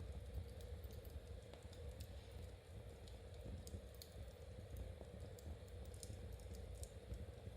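Knitting needles clicking softly and irregularly, with a fireplace crackling over a low steady rumble.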